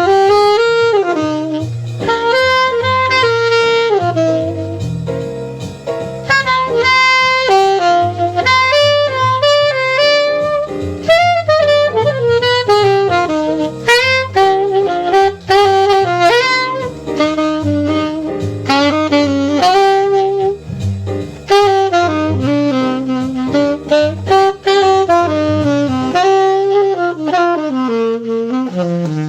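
Jazz saxophone playing a fast, running melody line over a bass and drums backing; near the end the bass drops out and the saxophone falls to a final low note as the tune ends.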